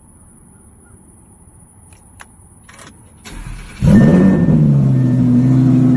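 Audi R8 V10 RWS's 5.2-litre V10 being started: a short crank about three seconds in, then the engine catches with a loud flare of revs and settles into a steady idle.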